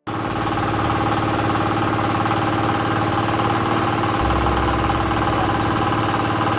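Large engine running steadily at constant speed, with a fine even pulsing through its hum; a deeper low drone comes in about four seconds in.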